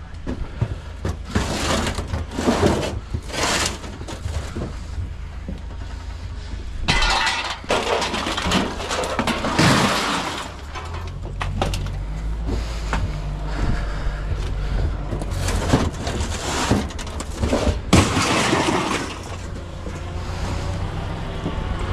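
Scrap metal being thrown onto a pile: a run of irregular crashes and clattering metal impacts, some ringing briefly, over the steady low hum of an engine running.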